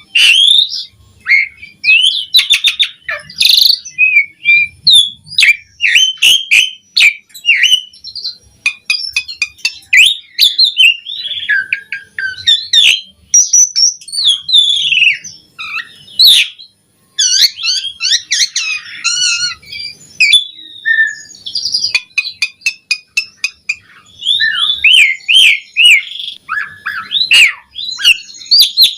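Pied myna (jalak suren) singing a long, varied song. Whistled and slurred notes are mixed with fast clicking rattles and chirps, with only brief pauses.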